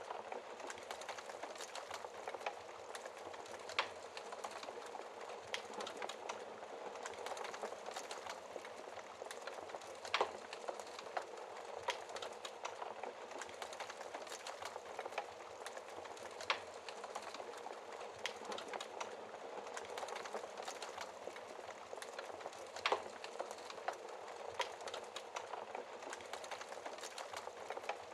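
Wood fire burning in a fireplace: a steady hiss of flames with frequent small crackles and a few louder, sharper pops of burning logs scattered throughout.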